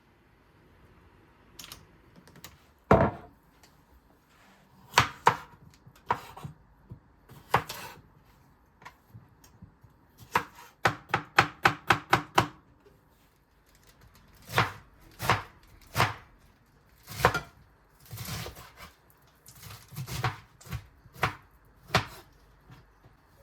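Knife chopping on a cutting board: separate strokes here and there, with a quick run of about eight chops around the middle.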